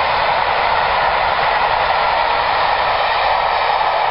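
Passenger train hauled by the A1 Pacific steam locomotive 60163 Tornado going past, heard as a steady rushing noise with no separate exhaust beats or wheel clicks.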